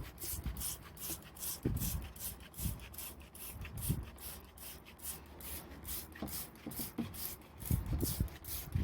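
Scrubbing a freezer's moldy rubber door seal: a fast, even rubbing of about four scratchy strokes a second, with a few soft knocks.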